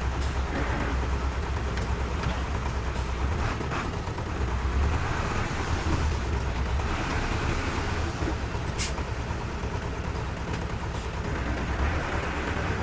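Heavy diesel engine of earthmoving machinery running steadily with a deep low rumble, with a few light knocks and one sharp click about two-thirds of the way through.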